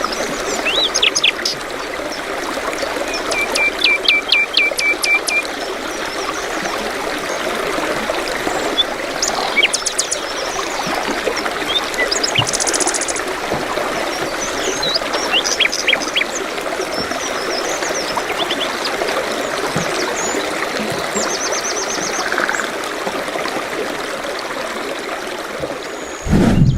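Birds chirping and trilling in short scattered calls over a steady sound of running water.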